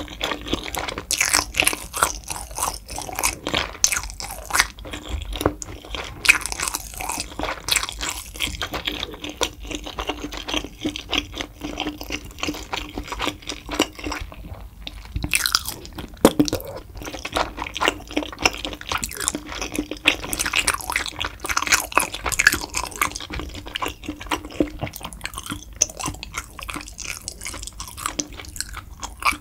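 A person chewing crunchy food close to the microphone: a dense, steady run of crisp crunches and chewing clicks.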